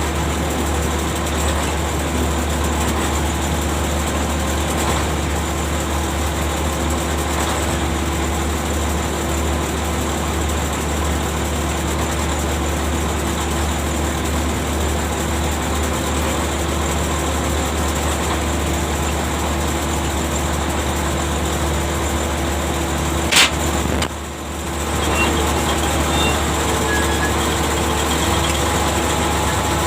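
Ship's machinery running with a steady low drone and a few constant tones. A sharp click comes about 23 seconds in, then the sound dips briefly and builds back up.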